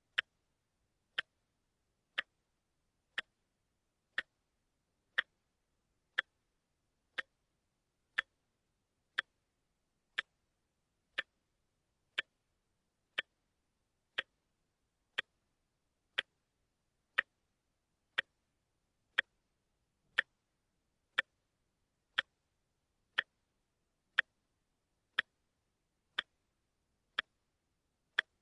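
Watch ticking steadily, one single sharp tick each second with no other sound between the ticks.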